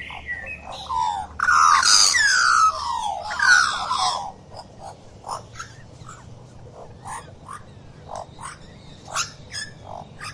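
Animal calls: a loud run of harsh calls that sweep downward in pitch for about two and a half seconds, then short, scattered chirps or peeps.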